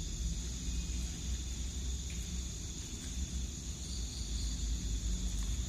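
Night insects keep up a steady high-pitched drone over a low, steady rumble.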